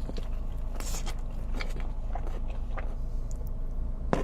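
Close-miked chewing of a mouthful of samosa with chicken tikka masala: small wet clicks and soft crunches, scattered and irregular, over a steady low hum.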